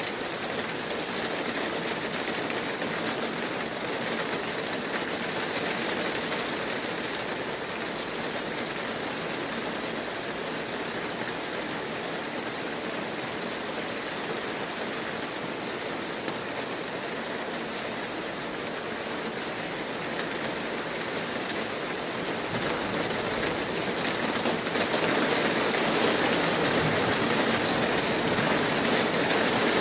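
Heavy rain falling steadily: an even hiss that grows louder about three quarters of the way through.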